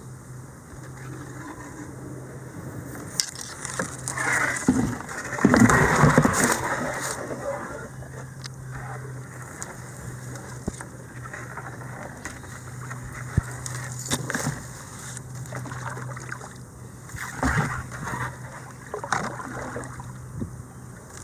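Kayak paddle splashing and sloshing in creek water in a few irregular bouts, the loudest about five to seven seconds in, over a steady low hum.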